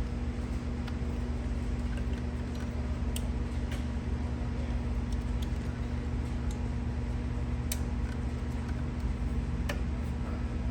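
Scattered light clicks and taps of ignition coils being unplugged and pulled from a BMW 325i's engine to swap cylinder 5 and cylinder 1 coils, over a steady low hum.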